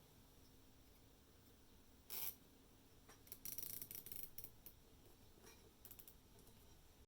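Faint small handling sounds: a short scrape about two seconds in, then a quick run of light clicks and scratches, and a few more soft clicks near the end.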